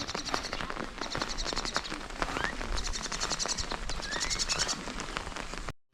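Wet outdoor ambience: scattered drips ticking, with a high, fast trill that repeats in bursts of about half a second and two short rising bird chirps. The sound cuts out briefly near the end.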